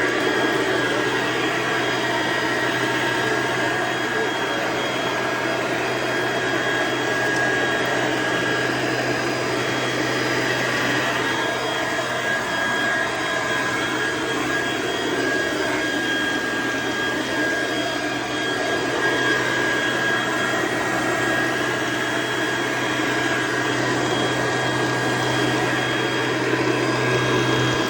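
Weed Eater 2560 electric leaf blower running steadily at full speed, a constant motor hum and rushing air with a faint steady whine. The blower is working again after its disconnected internal wires were reconnected.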